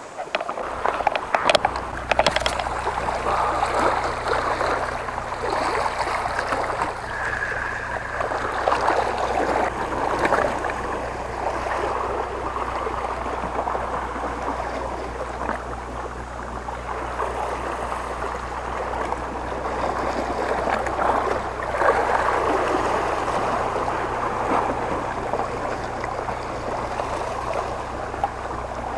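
Seawater sloshing and gurgling against rocks, with a few sharp clicks in the first two seconds and a steady low hum underneath.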